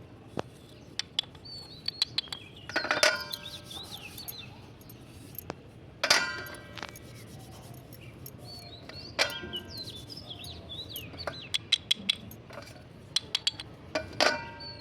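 Repeated sharp crunches and snaps of slate pencil sticks being bitten or broken, irregular and several close together, over birds chirping with a few short pitched calls among them.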